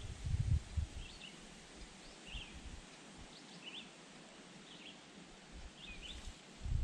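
A bird calling, a short chirp repeated over and over about once every two-thirds of a second. Low rumbling of wind on the microphone in the first second and again at the very end.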